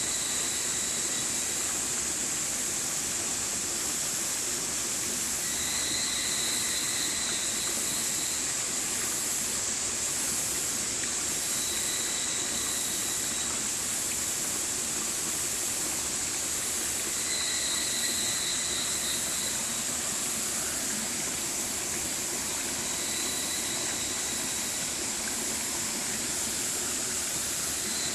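Stream water rushing steadily. A faint high, pitched tone with an overtone comes in about every six seconds, each time for one to two seconds.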